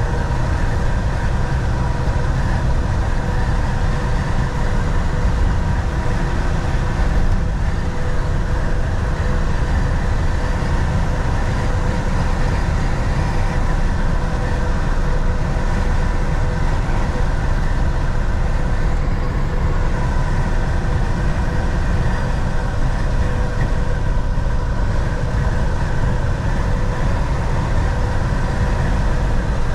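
Volvo VNL 760 semi truck cruising on the highway, heard from inside the cab: a steady low engine drone with a constant hum over road and tyre noise.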